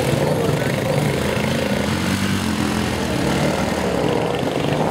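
Vehicle engine running hard with a loud, steady drone.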